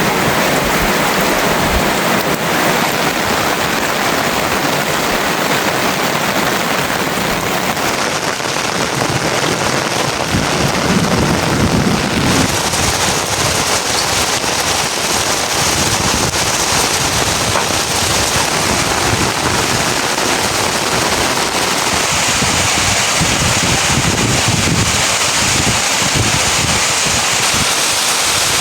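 Heavy rain falling steadily, a dense even hiss of downpour whose character shifts slightly about 8 and 12 seconds in.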